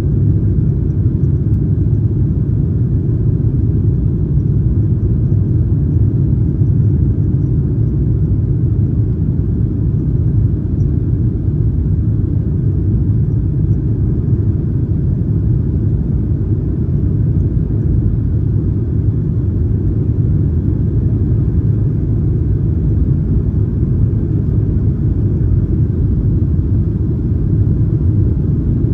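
Steady low cabin rumble inside a Boeing 737-900ER, its CFM56-7B engines and airflow heard from a rear economy window seat, with no change in level.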